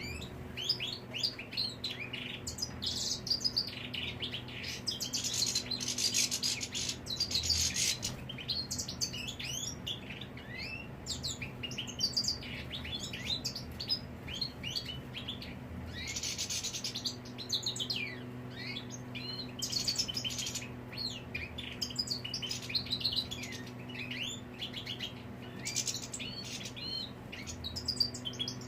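European goldfinch singing: a rapid, continuous twittering of short chirps and trills, over a low steady hum.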